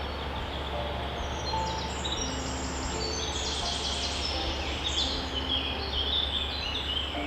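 Birds chirping, with many short high notes that grow busier toward the middle, over a steady hiss. A slow melody of soft sustained low notes plays underneath.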